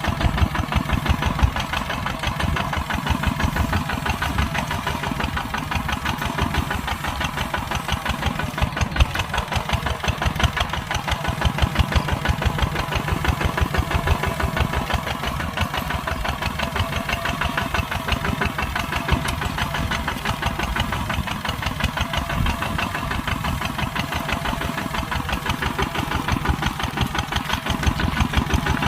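Kubota tractor's diesel engine running steadily with a rapid, even beat while plowing a field.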